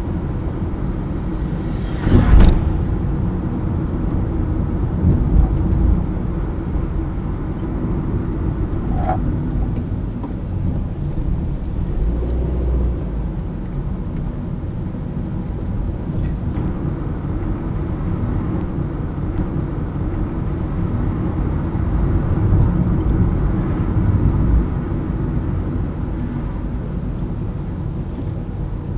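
A car driving, with a steady low engine and tyre rumble. A sharp thump comes about two seconds in, and a smaller one a few seconds later.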